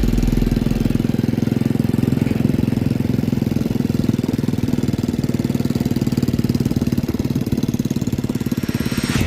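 Honda CG110's single-cylinder four-stroke engine running steadily.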